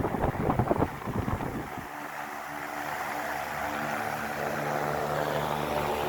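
Venti-Delta Premium 60 cm wall fan running. Its airflow buffets the microphone for about the first two seconds. Then come a steady motor hum and a rush of air that slowly grows louder.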